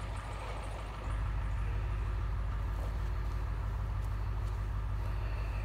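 Mini excavator's diesel engine running steadily, growing louder about a second in.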